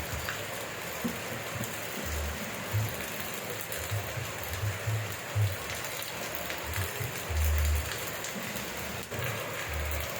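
Steady rain falling, an even hiss throughout, with irregular short low thuds underneath, the longest a little past seven seconds in.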